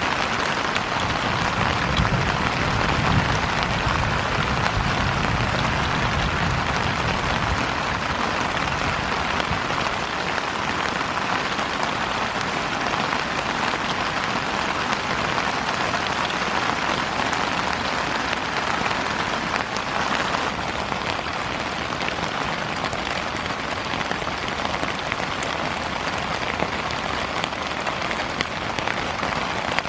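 Heavy rain falling steadily, a dense even hiss of drops, with a low rumble underneath for the first several seconds.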